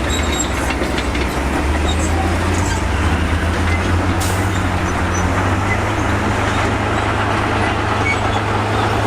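Crawler bulldozer's diesel engine running steadily under load, with the clanking rattle of its steel tracks.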